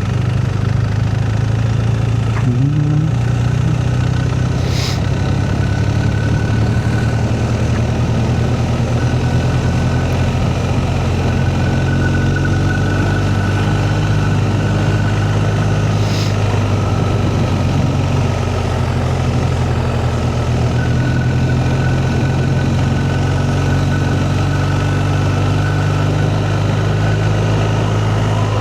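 Motorcycle engine running at a steady note while the bike climbs a steep, narrow mountain road, with two brief clicks about 5 and 16 seconds in.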